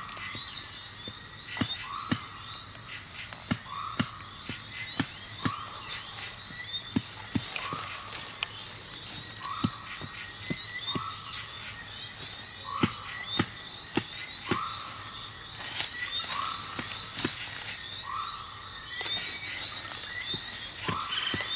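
Outdoor ambience: a short, slightly rising call repeats roughly once a second over steady high-pitched tones. Scattered sharp clicks and knocks run throughout.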